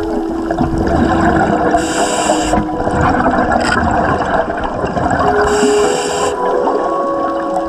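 Scuba diver breathing through a regulator underwater. Two inhalations, each a brief hiss about four seconds apart, with a rush of exhaled bubbles between them. Faint steady tones run underneath.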